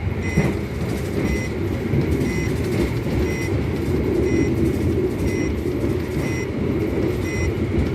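Steady low rumble of a train running past at speed, with a short electronic beep repeating about once a second over it.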